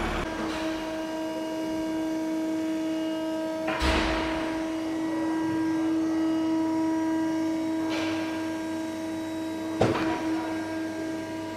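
Steady, multi-tone hum of factory machinery, broken by a thump about four seconds in, a hiss-like burst around eight seconds and a sharp knock near ten seconds.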